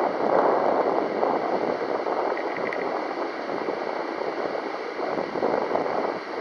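Strong, gusty wind buffeting the microphone: a rushing noise that swells and eases without letting up.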